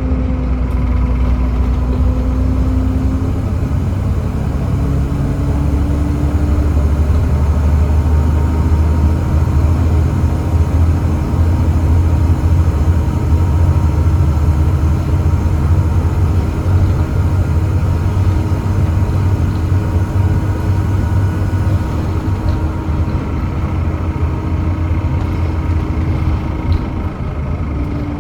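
Volvo D7C 7.3-litre diesel engine of a Volvo B7TL double-decker bus running under way with a steady low drone; its tone shifts slightly about six seconds in and again near the end.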